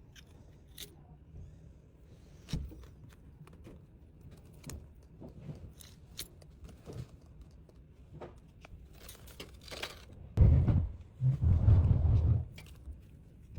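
Small items and packaging being handled: scattered light clicks and taps, then a louder stretch of rustling and crinkling for about two seconds near the end.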